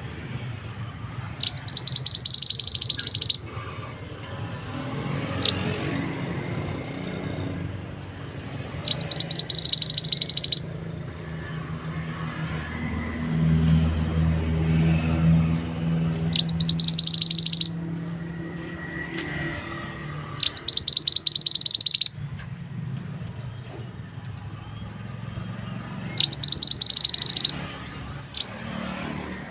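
Burung mantenan singing in rapid, dense rolling trills, five bursts of about one and a half to two seconds each, with a couple of single short notes between them. A low rumble runs underneath and swells in the middle.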